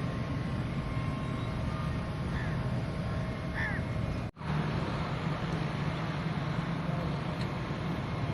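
Steady low rumble of background noise with a few short bird calls in the first half. The sound drops out for an instant a little past halfway, like a cut.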